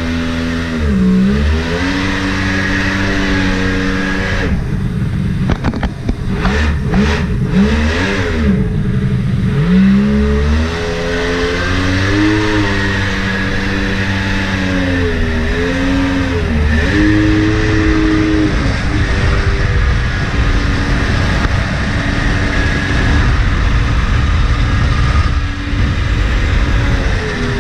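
Mini jet boat's Yamaha 1100 personal-watercraft engine running under way, the throttle dropping briefly about a second in, rising and falling quickly several times a few seconds later, then holding fairly steady with a few small dips.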